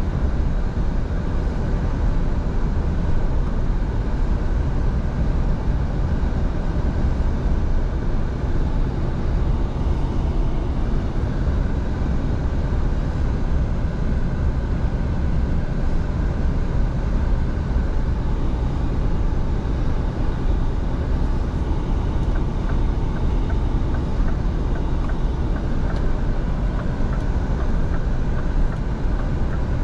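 Scania V8 truck driving at a steady pace: a continuous, even engine drone mixed with road and tyre noise, with no change in pitch or level.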